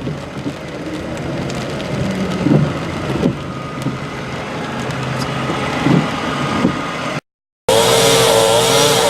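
A vehicle running through rain, a steady noise with a low hum and a few soft knocks. Near the end it cuts off abruptly, and a chainsaw starts running, its pitch wavering up and down.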